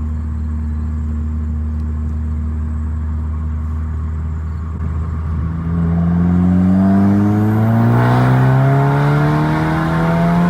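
Turbocharged four-cylinder of a Golf R IS38-turbo-swapped VW GLI cruising steadily, then pulling hard under full boost from about halfway, its pitch rising steadily and the engine getting louder through the rev range.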